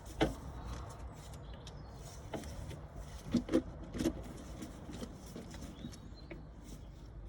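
Car engine running with a steady low rumble, over which come several sharp knocks and clicks, two of them close together about halfway through.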